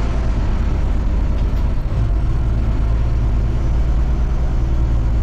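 Dump truck's diesel engine running steadily as the truck drives along, a continuous low rumble.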